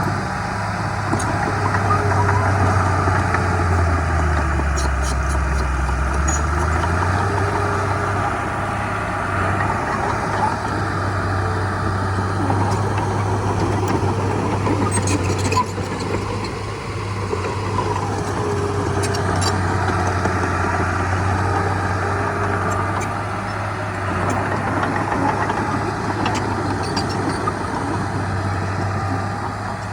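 Heavy diesel engine of earthmoving machinery running steadily, its low hum dropping in pitch for a few seconds about four seconds in, as if under load, then recovering.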